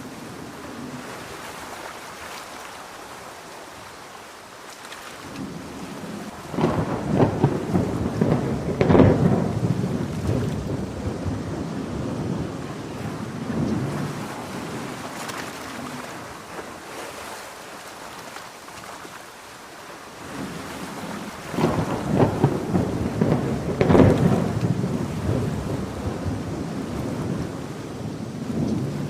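Steady heavy rain with two long rolls of thunder, the first about seven seconds in and the second about fifteen seconds later, each building to a loud crackling rumble and then dying away.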